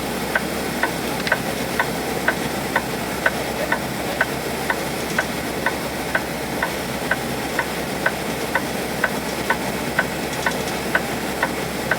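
Turn-signal flasher ticking steadily about twice a second inside a semi-truck cab, over the steady running of the truck's engine.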